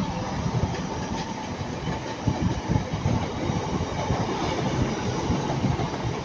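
TransPennine Express Class 185 diesel multiple unit passing close by, a steady rumble with its wheels knocking irregularly over the rail joints.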